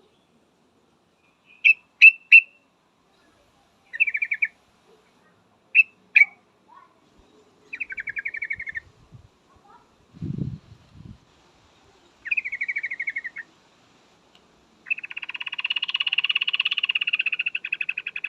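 Female yellow-vented bulbul calling: a few sharp chirps, then short rattling chatters and a long chattering run of about three seconds near the end. A dull low thump comes midway.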